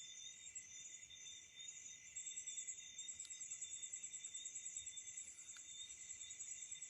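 Faint, steady high-pitched chirring of insects, a continuous trilling chorus.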